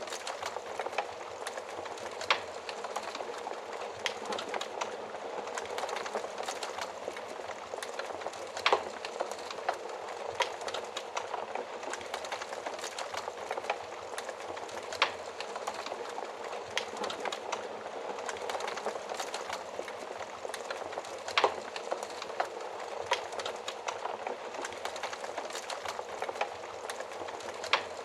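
Wood fire burning inside a stove oven: a steady hiss and fizz of flames with constant small crackles and a few louder sharp pops from the burning wood.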